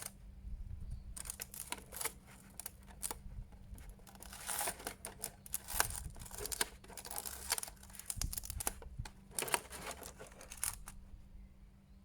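Plastic seal bag around an action figure's weapon accessory being crinkled and torn open by hand, in irregular crackles that stop near the end.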